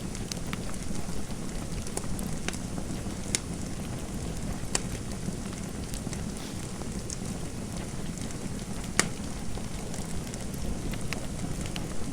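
Fireplace fire crackling: a steady low rushing noise with irregular sharp pops and snaps, one louder pop about nine seconds in.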